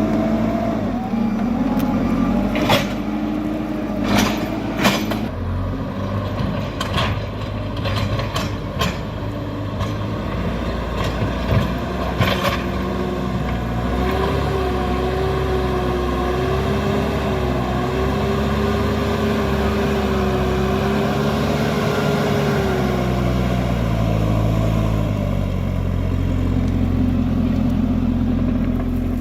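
JCB backhoe loader's diesel engine running with its revs rising and falling under working load, with several sharp metallic clanks in the first half and a wavering whine through the middle.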